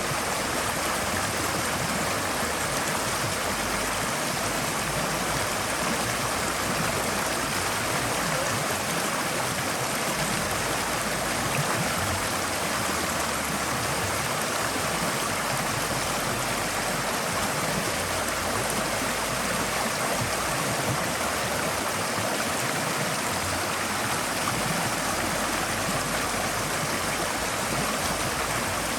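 A forest stream flowing steadily, water rushing and splashing over rocks in an even hiss.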